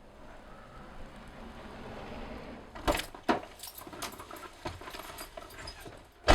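A series of sharp clicks and small knocks with some light jingling over a low background hiss, the loudest click near the end.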